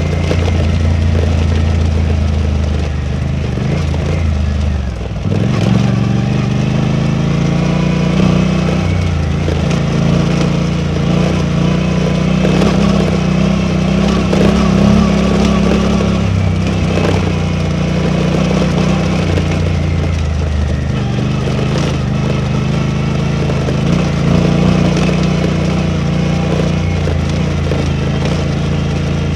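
Suzuki V-Strom 800DE parallel-twin motorcycle engine running steadily under way. About five seconds in the engine note drops briefly and then climbs again, as with a gear change.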